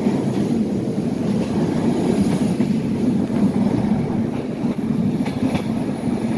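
Passenger train running at speed, heard from a carriage window: a steady rumble of wheels on the rails, with a few faint rail clicks about five seconds in.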